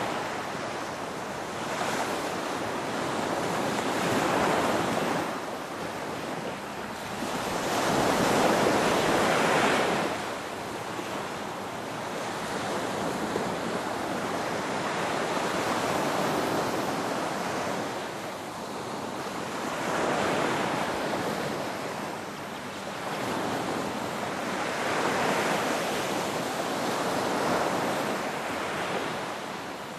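Ocean waves breaking and washing in a continuous surge, swelling and falling every few seconds, with one larger swell about eight seconds in.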